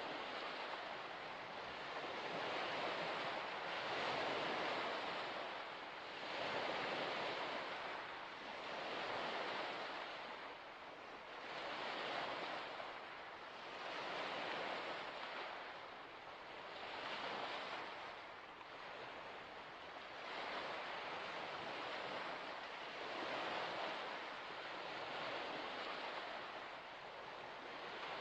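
Small waves washing against a shore, a continuous rushing wash that swells and fades every two to three seconds.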